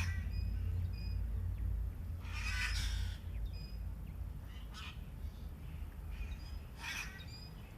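Birds calling: a few short, harsh calls about two seconds apart, with brief high chirps between them, over a steady low rumble.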